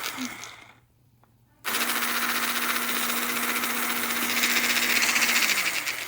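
Handheld battery milk frother whirring in a mug of hot cocoa. It cuts off just after the start, starts again abruptly about a second and a half in, and runs steadily. Near the end its pitch sinks as the motor winds down.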